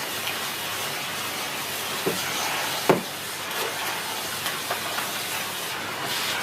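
Miele S6 cylinder vacuum cleaner with its 2000 W motor running, air rushing through a dusting brush on the hose in a steady hiss. A couple of knocks about two and three seconds in, the second the loudest, as the brush taps against furniture.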